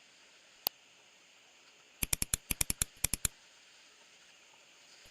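Computer mouse clicking: one single click, then about a second later a quick run of about a dozen clicks, and a few more near the end.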